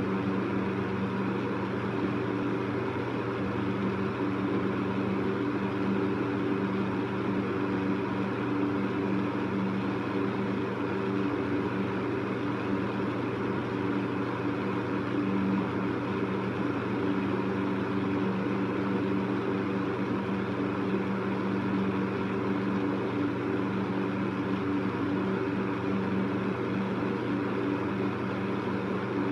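Electric fan running steadily: a low, even motor hum under a constant rush of air.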